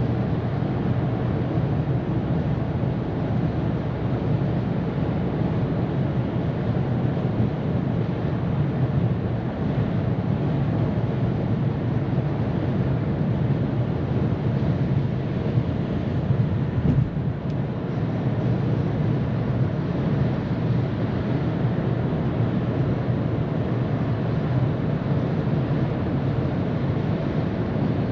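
Ford Maverick pickup cruising at highway speed: steady tyre roar and wind rush with a low rumble. A few light knocks come about two-thirds of the way through.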